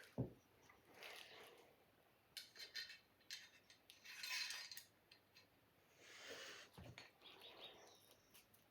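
Faint scraping strokes of a sword blade being sharpened, coming every second or two, with a soft knock just after the start and another about seven seconds in.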